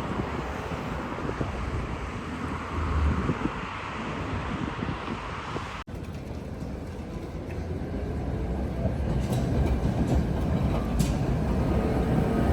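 Tatra tram running along street track, with rumbling wheel-on-rail noise. The sound drops out for a moment about six seconds in, then grows louder toward the end with a faint rising whine and a few sharp ticks.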